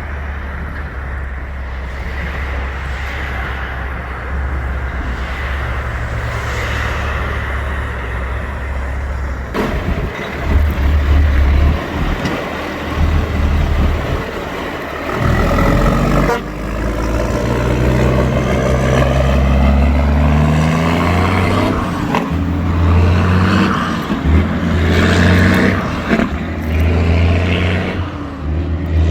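Road traffic with heavy vehicle engines running: a steady low engine hum at first, then from about halfway a vehicle accelerating, its engine pitch climbing in steps several times.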